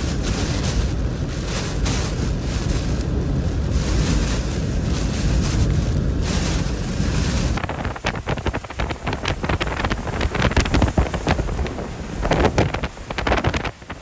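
Hurricane-force wind of Hurricane Ian buffeting the microphone: a heavy, steady low rumble that turns gusty and crackling about eight seconds in, with the loudness surging and dropping.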